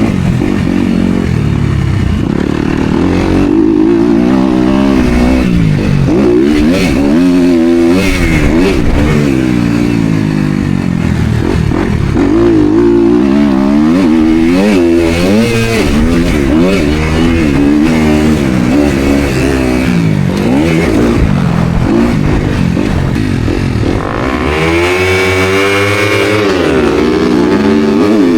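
Dirt bike engine revving hard on and off the throttle during a motocross race. Its pitch climbs and falls over and over for the whole stretch, with a brief drop and quick re-rise about 24 seconds in.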